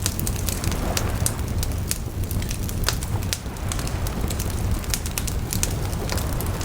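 Wood bonfire crackling: sharp, irregular pops and snaps over a low, steady rumble.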